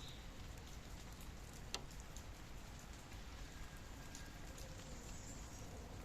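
Steady rain falling, with scattered drops ticking on a surface and one sharper drip a little under two seconds in.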